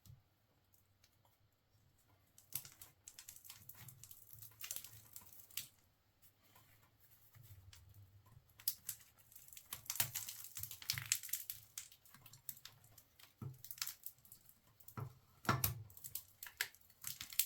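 Scattered small clicks, taps and rustles of hands handling motorcycle parts around the carburetor, with no engine running. Nearly still at first, then busier about halfway through.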